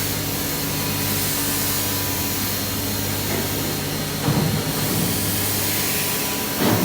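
Workshop machinery running with a steady low hum and hiss, broken by two short louder clatters about four seconds in and near the end.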